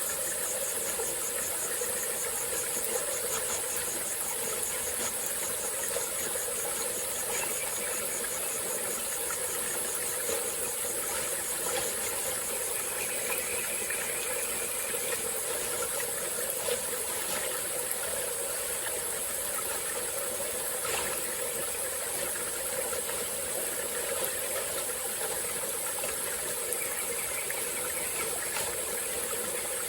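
Small tropical-forest stream flowing steadily, with a constant high-pitched insect drone over the water's rush and a few faint clicks.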